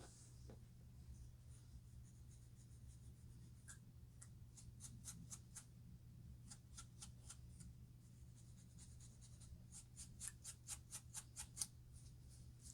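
Faint scratching at a person's scalp to loosen dandruff: short, sharp scratching strokes, with a bit of soft rubbing in between, quickening into a rapid run of strokes near the end.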